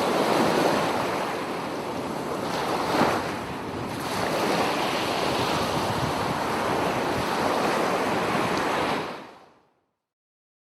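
Ocean surf washing on a shore, swelling and easing, then fading out to silence about nine seconds in.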